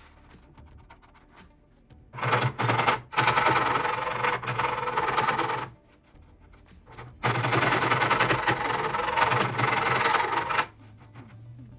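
A power tool runs hard in two bursts of about three and a half seconds each, with a rapid mechanical chatter, starting about two seconds in and again about seven seconds in.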